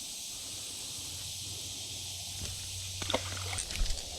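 A steady, high-pitched outdoor insect chorus, with a low hum underneath and a few quick clicks and knocks about three seconds in.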